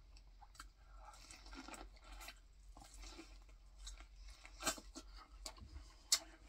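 Biting into and chewing a boiled corn cob: soft crunching and mouth sounds, with a few sharp clicks in the second half.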